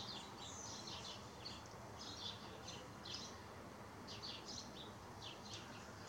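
Small birds chirping faintly, clusters of short high chirps repeating every second or so over a faint steady hiss.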